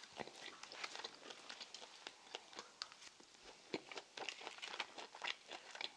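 Close-miked chewing of crispy battered fried pork (tangsuyuk): a run of many small, irregular crunches.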